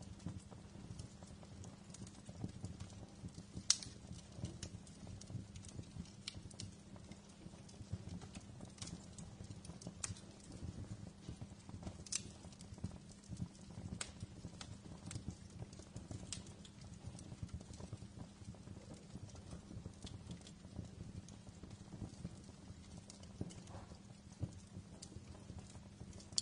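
Wood fire crackling in a fireplace: irregular sharp pops and snaps over a steady low rumble of the flames, with one louder pop about four seconds in.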